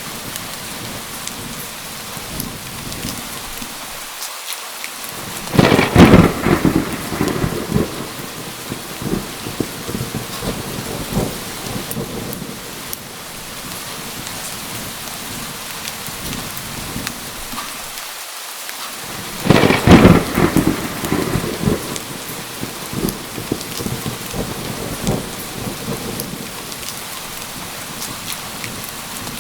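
Steady heavy rain with two loud thunderclaps, one about six seconds in and another about twenty seconds in, each rumbling away over a couple of seconds.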